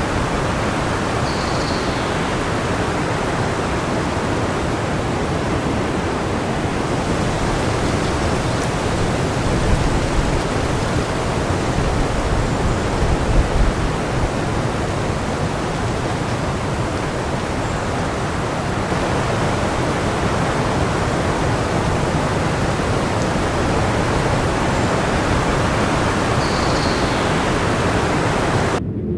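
Wind blowing hard and steadily, a dense rushing noise with slight gusts about ten and fourteen seconds in; just before the end it cuts abruptly to a duller, lower rush.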